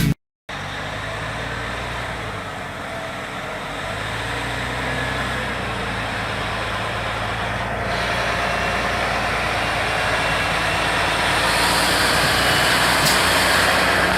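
Heavy 8x8 military truck's diesel engine running steadily under load, growing gradually louder, with a rising hiss toward the end.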